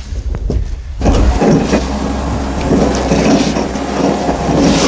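A winch hauling a car up onto a truck or trailer: a steady mechanical drone with rattling and clatter that starts about a second in.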